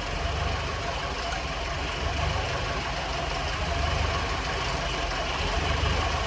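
An old baler's engine running steadily at idle, a low, even rumble.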